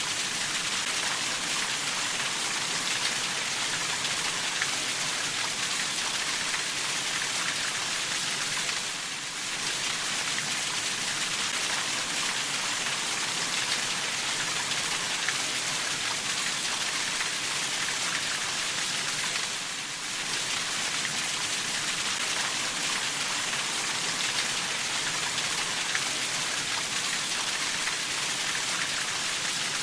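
Steady, even rainfall hiss, with the sound dipping briefly about nine and again about twenty seconds in.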